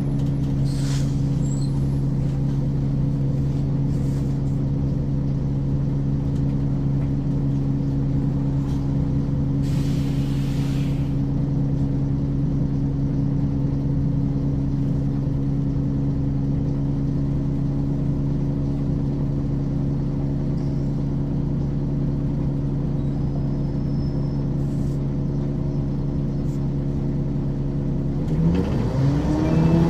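Ikarus 435 articulated bus's diesel engine idling steadily, with a brief hiss of air about ten seconds in. Near the end the engine revs rise as the bus pulls away.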